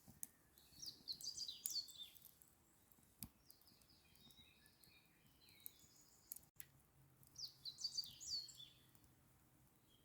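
A songbird singing two short phrases of quick, high, falling notes, about a second in and again around seven and a half seconds, with softer chirps between. Faint crackles of a campfire.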